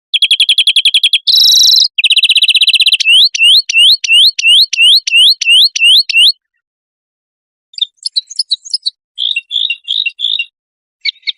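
Recorded songbird song: a fast buzzy trill, then a run of about ten loud upslurred whistled notes at roughly three a second. After a pause of about a second, a scatter of short chirps and twitters.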